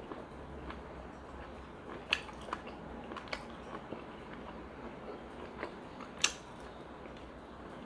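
A person chewing pork momos: wet mouth sounds with scattered sharp clicks and smacks, the sharpest about two seconds in and again about six seconds in.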